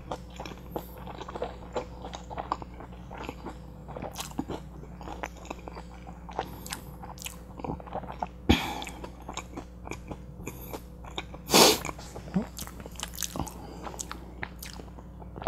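Close-miked chewing of a mouthful of butter chicken burrito: steady wet mouth clicks and smacks, with two brief louder sounds around the middle.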